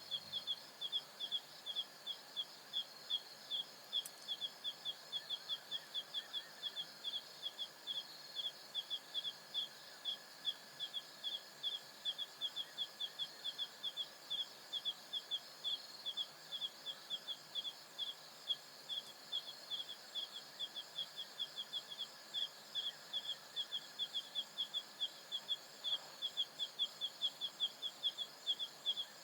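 Savanna night chorus: a high chirp repeated steadily about three times a second over a continuous high-pitched insect trill.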